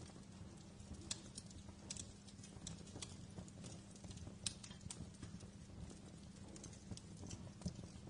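Wood fire in a fireplace crackling: irregular sharp snaps and pops, a few louder ones standing out, over a soft steady low background.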